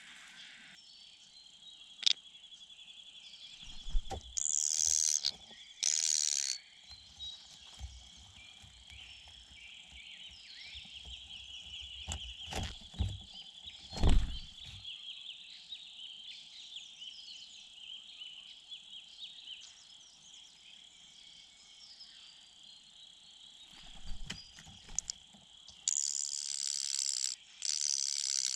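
Outdoor night ambience: insects trilling steadily, broken by two loud rustling bursts of a second or two, about four seconds in and again near the end, and a few low thumps.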